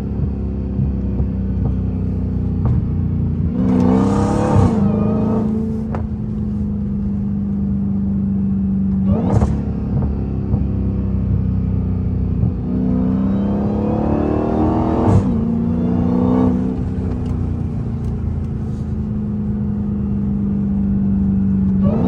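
Straight-piped Dodge Challenger Hellcat Redeye's supercharged 6.2-litre HEMI V8 running at a steady drone while driving, twice rising in pitch as it is given throttle and then settling back. A few brief sharp sounds cut through along the way.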